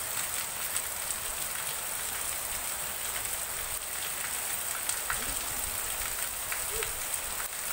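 Heavy rain falling steadily: an even hiss with scattered sharp ticks of drops striking close by.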